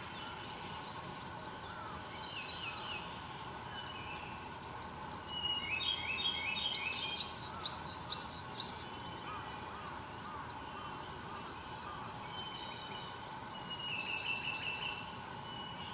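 Several wild songbirds singing. One loud song of quick repeated notes climbs in pitch about five to nine seconds in, and quieter trilling songs come near the start and near the end over a faint steady hum.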